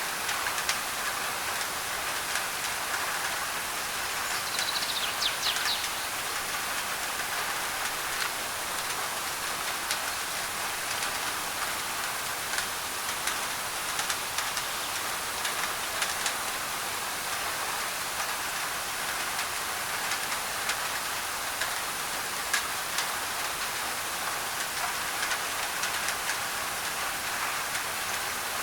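Steady heavy rain drumming on a thin tin roof, blended with white noise, with scattered sharper drop ticks.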